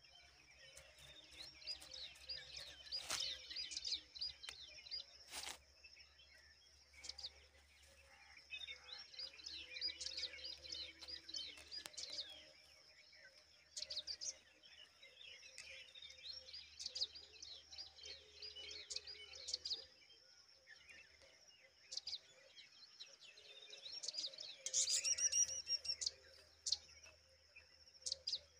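Rock chats chirping in bursts of quick, high notes over a steady high-pitched whine. The loudest, densest burst of chirping comes near the end.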